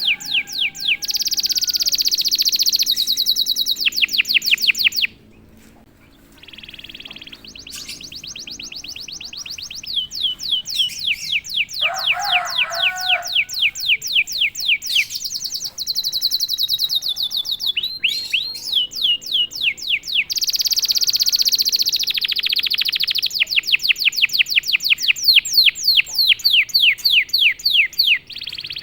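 Domestic canary singing a long song of fast trills: rapid runs of repeated falling notes that change to a new trill every few seconds, with a short quieter gap about five seconds in.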